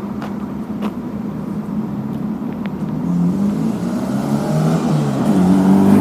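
A motor vehicle's engine running steadily, then rising in pitch and growing louder over the last few seconds.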